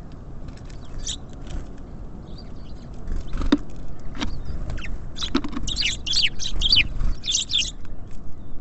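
Small songbirds at a bird feeder: a couple of sharp taps, then a run of short, high chirps in the second half, over a steady low background rumble.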